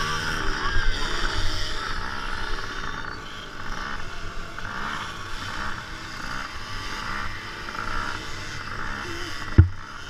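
Several small motocross bike engines running hard as the riders pull away from the start, the engine noise swelling and fading as the throttles open and close. A single sharp thump near the end.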